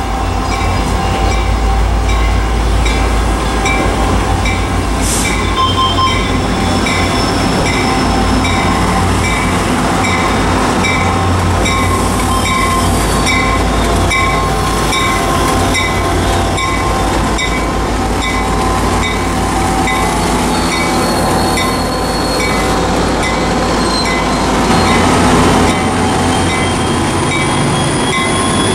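EMD F40PH-2C diesel locomotive drawing a commuter train in along the platform: steady low engine rumble and rail noise, with a bell ringing in a regular rhythm, about once a second. A thin rising squeal of wheels or brakes comes in near the end.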